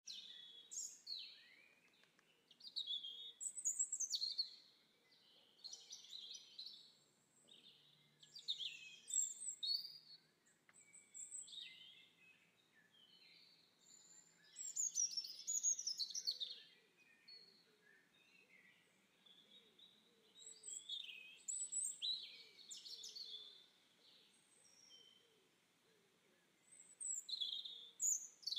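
Songbirds singing: short, high-pitched warbling phrases repeated every second or few seconds.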